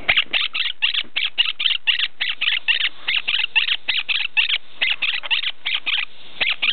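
Quaker parrot giving a rapid string of short, sharp chirps, about four to five a second, with a brief pause near the end.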